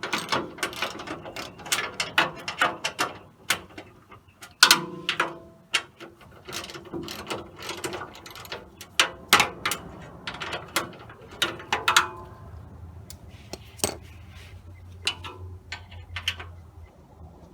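Socket ratchet clicking in runs, with metallic clinks and knocks, as the bolts holding an underbody panel are loosened.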